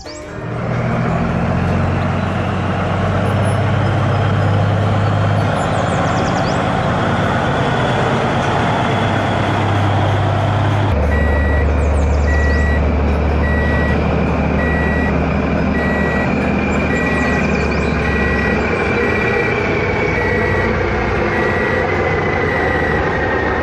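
Heavy truck engine running steadily; about halfway through its note drops lower and a reversing beeper starts, beeping about once a second almost to the end.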